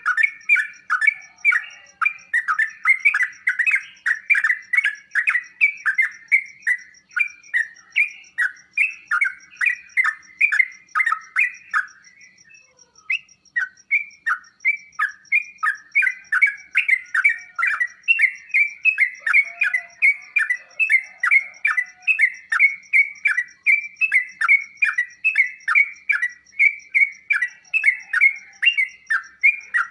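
Yellow-vented bulbul (trucukan) song: quick, bubbly chirps repeated about four a second, with a brief lull about twelve seconds in. It is played as a masteran to make a caged trucuk answer and fluff up.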